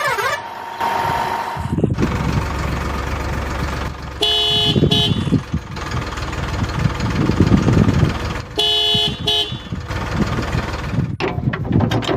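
A vehicle horn sounds twice, each time as a short run of quick toots, over a steady engine-like rumble. Rapid clicking starts near the end.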